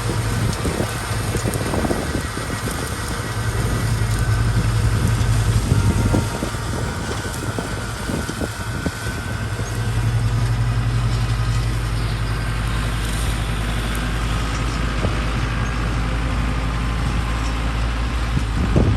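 Small tractor running a Trident flail mower on grass: a steady low engine drone under a rushing, chattering noise from the mower. The drone swells louder about three seconds in and again about ten seconds in.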